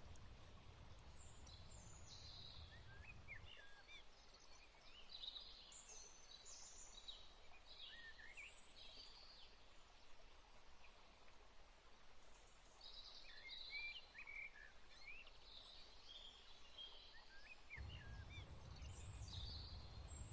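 Faint birdsong: many short chirps and whistles from several birds, scattered and overlapping throughout.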